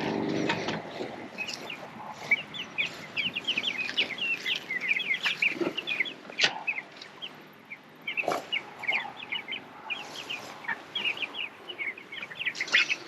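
A flock of young Cornish Cross broiler chicks peeping busily, many short high chirps a second, with a few sharp knocks among them.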